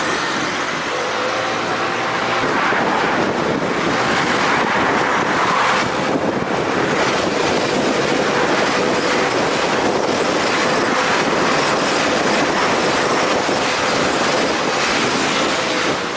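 A vehicle running steadily: a loud, even rushing noise with a faint steady hum underneath.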